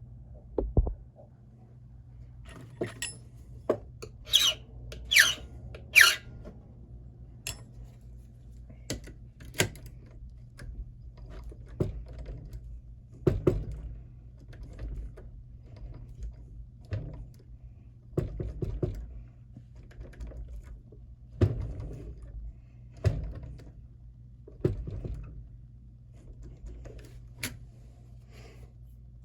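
Key blank being worked in an SC1 mortise lock cylinder during impressioning: three short, high squeaky scrapes about four to six seconds in, then a run of irregular metallic clicks and knocks as the blank is pushed in and twisted against the pins to raise marks.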